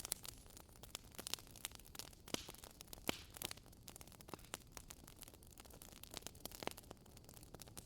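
Wood fire burning in a fireplace: a steady scatter of irregular crackles and sharp pops over a faint low rumble of the flames.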